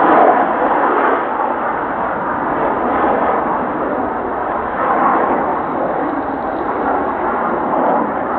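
Steady roar of jet engines, slightly louder near the start.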